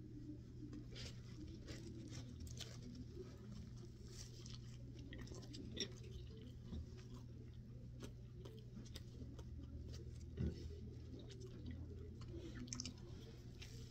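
A person biting into and chewing a cheeseburger on toasted egg-white bread: faint, wet chewing with small crunches from the toast and a couple of louder snaps. A steady low hum lies underneath.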